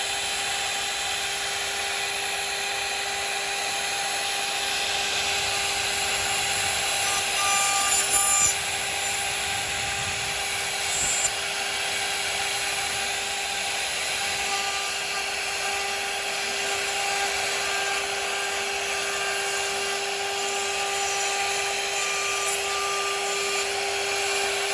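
CNC router spindle running at a steady high-pitched whine while its bit cuts into wood, the cutting growing briefly louder about eight seconds in.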